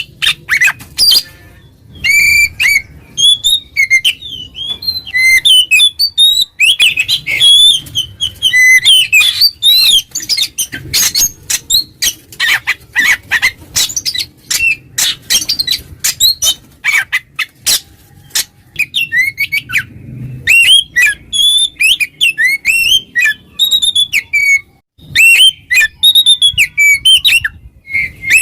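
Oriental magpie-robin (kacer) singing loudly and non-stop, a fast varied string of sweet whistles, chirps and harsh scratchy notes with a couple of short pauses. This is the bold challenging song that a male uses to call out rivals.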